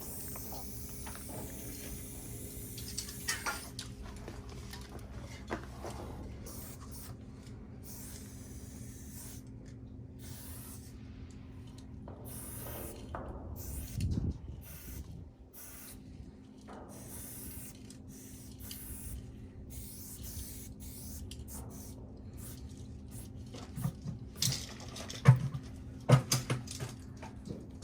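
Aerosol spray paint cans hissing in short, intermittent bursts over a steady low hum. A few sharp clicks and knocks come near the end.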